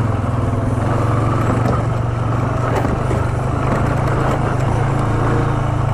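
ATV engine running at a steady pace as the quad rides along a trail, a constant low drone.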